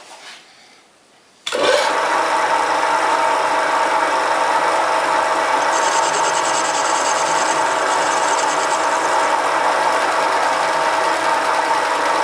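Homebuilt mini lathe with a 750 W single-phase motor switched on abruptly about a second and a half in, then running steadily with a mix of whine and hiss. A fine, rapid high chatter rides on it for a few seconds in the middle.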